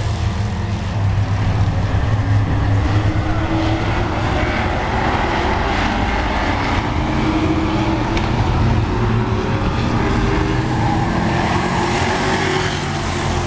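Several race trucks' engines running at racing speed around an oval, a dense steady drone with several engine pitches rising and falling as the pack goes round.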